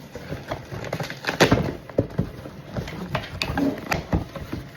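A run of irregular light knocks and clicks, a few to several a second.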